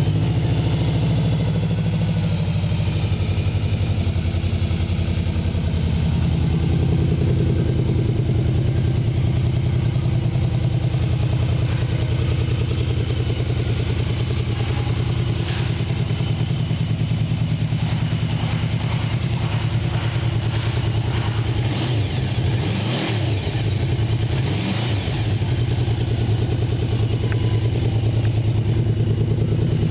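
2009 Yamaha VMAX's V4 engine through its stock exhaust, idling steadily, with two short throttle blips about three quarters of the way through.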